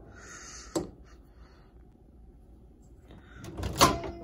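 A microwave oven door latch clicks once, sharply, about three-quarters of a second in, followed by quiet room tone. Near the end comes a loud, breathy burst of noise.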